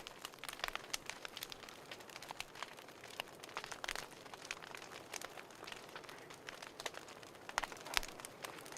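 Wood fire crackling in a fireplace: irregular sharp pops and snaps over a soft steady hiss, with a couple of louder pops near the end.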